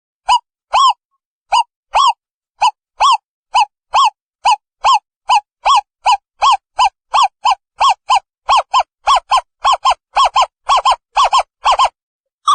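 Owl calling: a long series of short, pitched hoots, each rising and falling in pitch, that speeds up from about two a second to about three a second toward the end.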